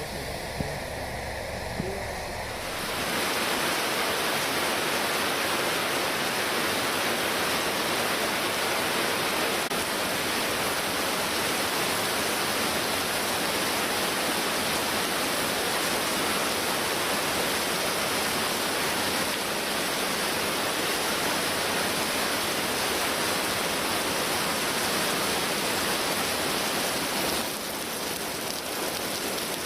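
Typhoon-swollen river in flood: a loud, steady rush of water that cuts in abruptly a couple of seconds in.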